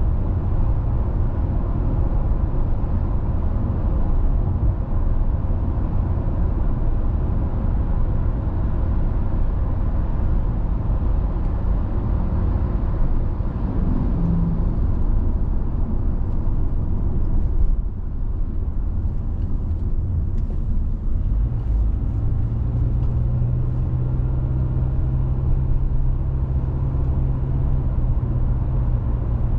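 Car driving on a country road: steady low rumble of tyres and engine. A steady low engine hum joins about two-thirds of the way through.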